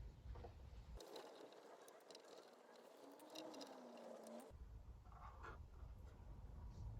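Near silence, with faint scattered ticks and scratches.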